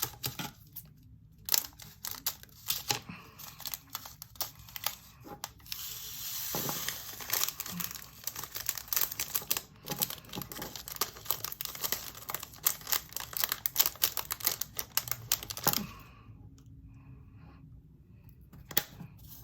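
Small plastic bags of resin diamond-painting drills being handled and emptied into plastic storage containers: plastic crinkling with a dense clatter of tiny clicks, thinning out near the end.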